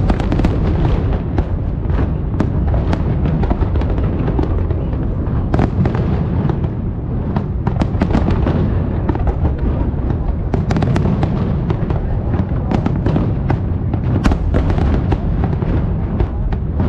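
Fireworks display: a steady low rumble of shell bursts with many sharp bangs and crackles, clustering in quick runs around the middle and toward the end.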